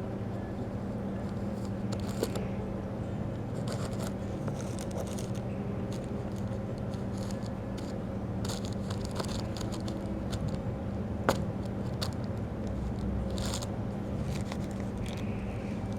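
Steady low hum under scattered light scraping and rustling, with one sharp click about eleven seconds in.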